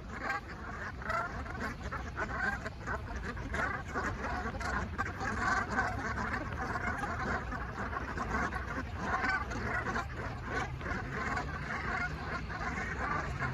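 A large flock of geese honking continuously, many short overlapping calls at once. A low steady hum comes in near the end.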